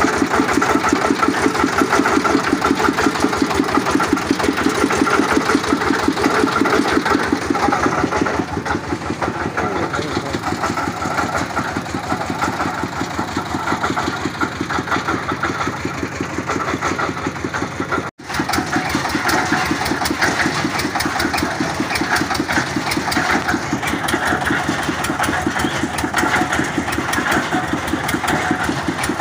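Engine of a water-well boring machine running steadily under load with a fast, even beat. There is a split-second break about eighteen seconds in.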